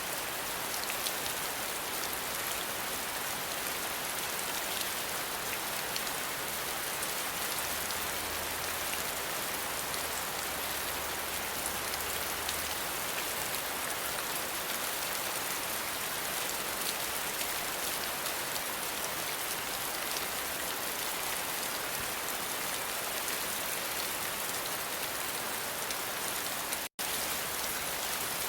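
Steady rain falling, an even hiss of many drops, which cuts out for an instant near the end.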